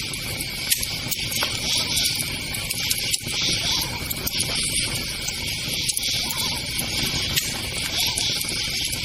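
Crickets chirping in a steady pulsing chorus over a crackling campfire, with a few sharp pops.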